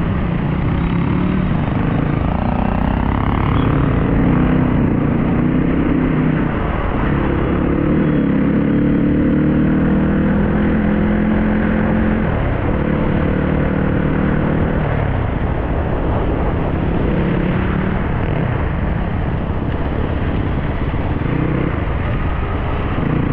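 Dirt bike engine running while riding, its pitch rising and falling as the throttle changes.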